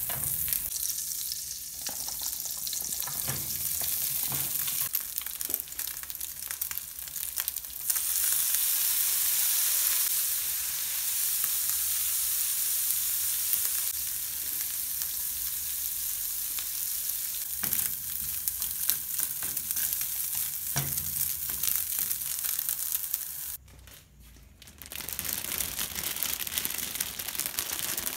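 Shredded chicken sizzling in hot oil in a non-stick frying pan, stirred with a spatula, with a steady crackling hiss that gets louder about a third of the way in. Near the end, after a brief dip, a plastic bread bag crinkles as it is handled.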